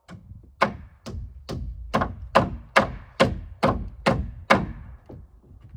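Hammer striking a wooden board about ten times in an even rhythm, roughly two blows a second, stopping about five seconds in: knocking a rafter board over into place.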